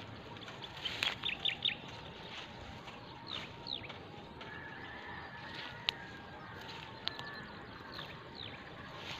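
A bird calling in short runs of quick, falling chirps: four in a row about a second in, then pairs twice more, over a steady outdoor background. A couple of single sharp clicks in between.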